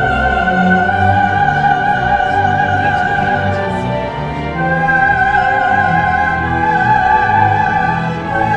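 Coloratura soprano singing a wordless melody in long held notes with vibrato, stepping up in pitch twice, over orchestral accompaniment.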